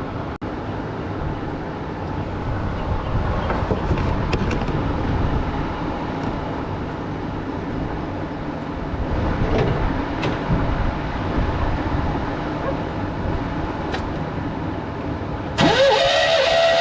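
Starter cranking the V6 over without it firing, a steady mechanical churn, as the engine is spun for a compression test with a gauge in one spark plug hole. Background music cuts in suddenly near the end.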